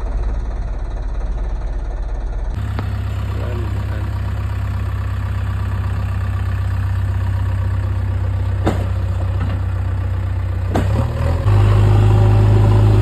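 Tractor engine running steadily at a low pitch, with two sharp knocks late on and a jump to a louder engine sound near the end.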